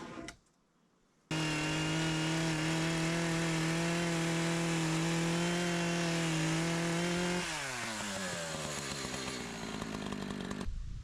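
Two-stroke chainsaw running at full throttle while cutting the top off a wooden post. It starts suddenly about a second in, holds a steady high engine note, then the pitch falls as the throttle is released, and it stops abruptly near the end.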